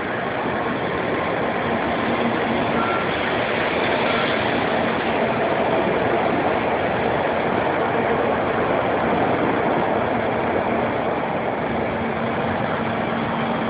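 A Tokaido Shinkansen train running past the platform as it pulls out of the station: a steady rushing noise of the cars going by, a little louder from about two seconds in.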